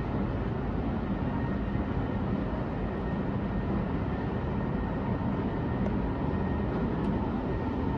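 Steady rumble with a faint hum and whine from an underground metro tunnel as an unseen MRT train approaches the station.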